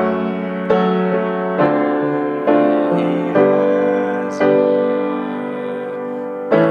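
Piano playing the slow closing chord sequence of a song, one full chord struck about every second and left to ring. A longer held chord follows about four seconds in, and a new chord is struck near the end.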